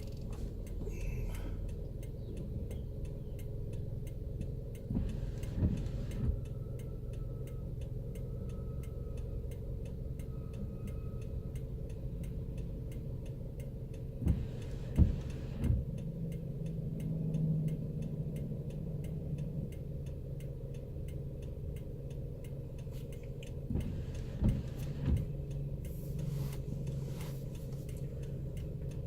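A car's turn indicator ticking steadily inside the cabin over the low drone of the moving car, with a few brief thumps about halfway through and again near the end.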